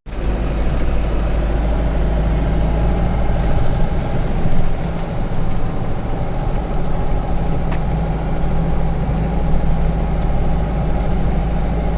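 Engine and road noise inside a moving vehicle: a steady low rumble that holds evenly throughout.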